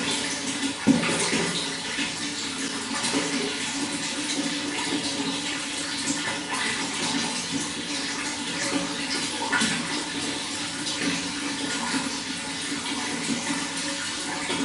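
Running water flowing steadily, with a brief louder splash about a second in.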